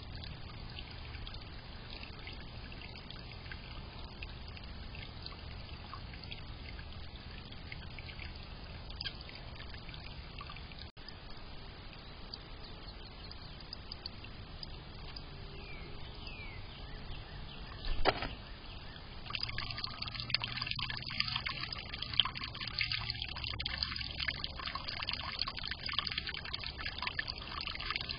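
Water trickling steadily in a small garden fountain. A sharp knock sounds about 18 seconds in, and after it the water turns louder and splashier.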